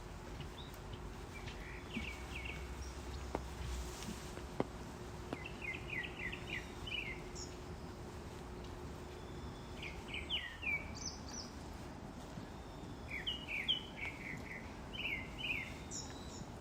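Small songbirds chirping in short, quick runs of notes that recur every few seconds over a steady background hiss. A faint steady hum stops about ten seconds in.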